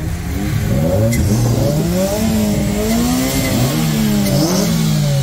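Two tuned car engines revving at the same time with open bonnets, each rising and falling in pitch on its own, in an exhaust-volume duel.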